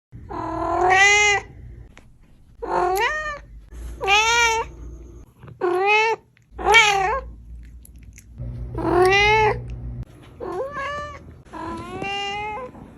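A cat meowing about eight times in a row, each meow a drawn-out call that rises and then falls in pitch, with roughly a second between calls.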